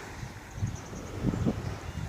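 Wind gusting against the microphone: an irregular low rumble that swells in gusts, strongest a little past the middle.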